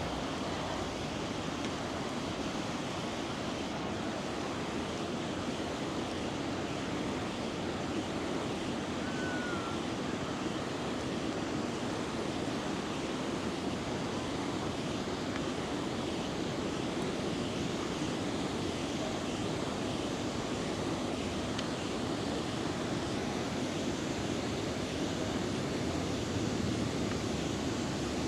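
A river rushing steadily over its bed, an even, unbroken wash of flowing water.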